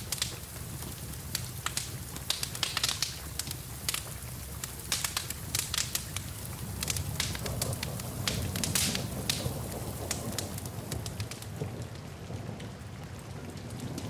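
Wood fire in a fireplace crackling and popping with irregular sharp snaps, over a steady low rumble, with rain falling. The pops thin out near the end.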